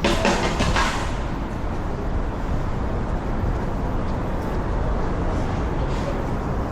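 City outdoor ambience: a steady low rumble of traffic, with a brief burst of clattering in the first second.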